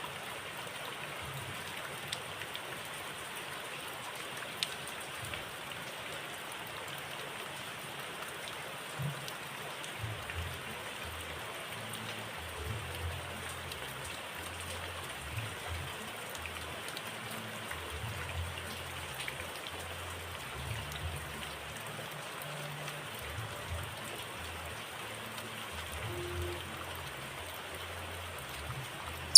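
Steady, even hiss like light rain, with faint low rumbles and no birdsong: a gap between bursts of song.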